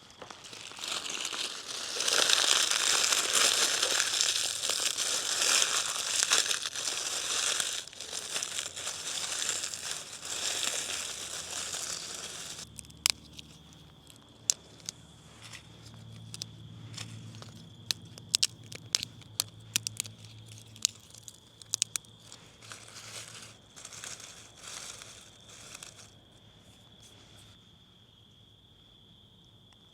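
Loud crinkling and rustling, like stiff fabric or a bag being handled, for about eleven seconds, then it stops abruptly. After that come scattered sharp clicks and light handling noises over a steady high insect drone.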